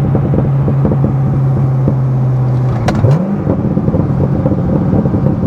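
Chevrolet Corvette C6 Z06's 7.0-litre LS7 V8 running at steady revs, then about three seconds in a click and a quick rise in engine pitch as the revs are blipped for a downshift, holding at higher revs afterwards.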